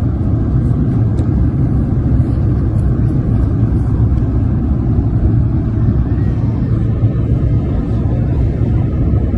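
Cabin noise of an Embraer 190 airliner in flight: a loud, steady low rumble of engines and airflow heard from inside the cabin.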